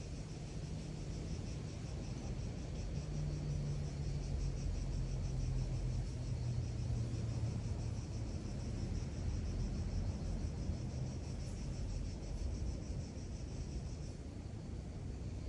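Outdoor ambience: a high, fast-pulsing trill that stops shortly before the end, over a steady low rumble with a distant engine hum slowly falling in pitch through the middle.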